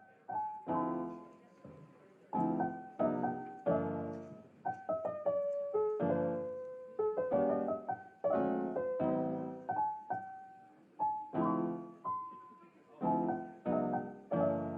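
Solo piano music: soft chords and single notes, each struck and left to ring away.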